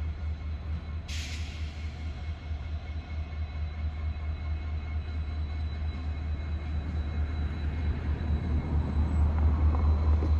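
Diesel railroad locomotive rumbling low and steady, growing louder toward the end, with a short hiss of air about a second in.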